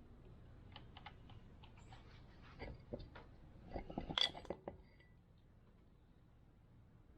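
A run of light clicks and metallic clinks from hand tools and small metal parts being handled during work on a motorcycle's front wheel and fork, loudest just after four seconds in, then only low room tone.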